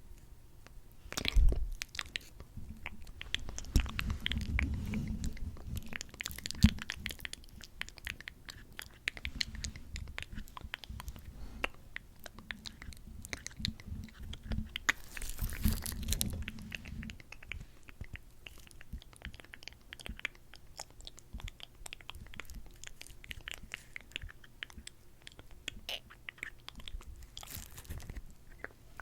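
Close-miked wet, sticky mouth sounds of lips coated in lip gloss, pressing together and parting: many small clicks and smacks, louder for stretches a few seconds in and around the middle.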